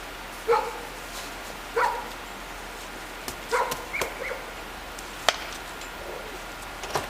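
A dog barking: four short barks in the first half, then a single sharp click.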